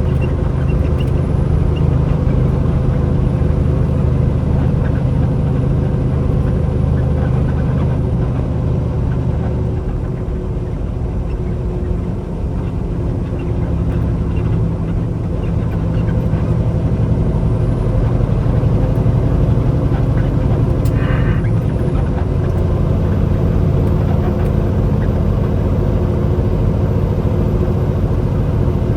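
Semi truck's diesel engine and road noise heard from inside the cab while driving: a steady low drone that eases slightly for a few seconds near the middle.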